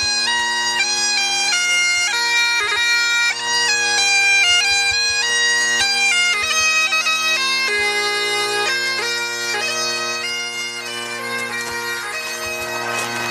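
Bagpipes playing a tune: a melody of held notes moving step by step over steady, unchanging drones.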